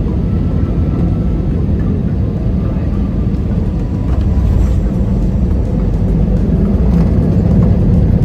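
Airbus A319 cabin noise: a steady low rumble from the jet on the ground after landing, getting a little louder about four seconds in.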